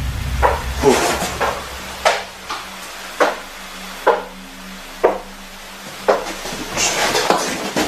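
Footstep-like knocks, about one a second, inside an old railway carriage, which the explorer takes for the sound of someone walking.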